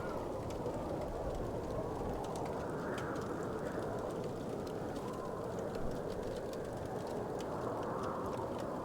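Wood fire crackling: a steady low rush with small sharp pops and clicks scattered through it.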